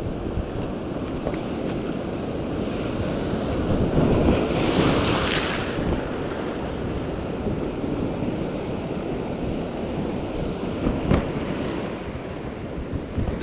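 Sea waves washing in with wind on the microphone; one wave surges loudest about four to six seconds in, and a brief click comes near the end.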